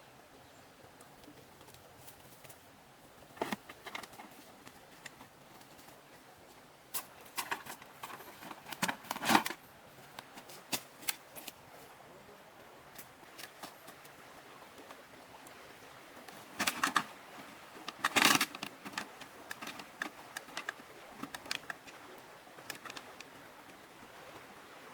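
Irregular clicks, taps and rustles of objects being handled, clustering and loudest about nine seconds in and again about eighteen seconds in.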